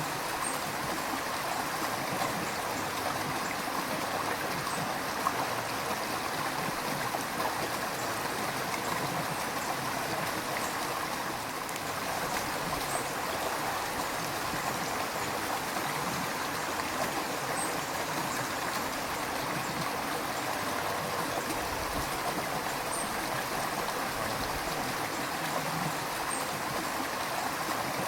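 River water flowing steadily over stones, a constant rushing and gurgling with no change in level.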